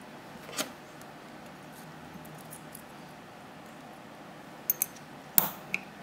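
A few light clicks and taps over a quiet background: one early, a quick pair, then a sharper knock and a last small click near the end.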